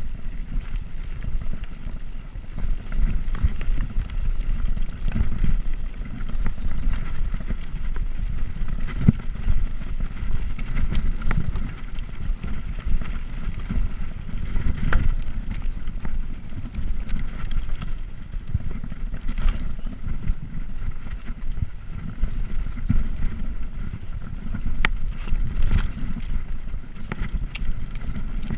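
Wind buffeting the microphone of a camera riding along on a moving bicycle: a steady low rumble that swells and dips. It is dotted with occasional sharp clicks and rattles.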